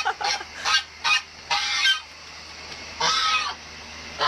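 Farm fowl calling loudly: a few short calls in quick succession, then two longer drawn-out calls about a second and a half and three seconds in.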